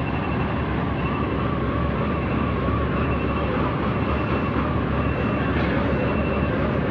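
Heavy diesel machinery running steadily, with a faint wavering whine above the engine noise.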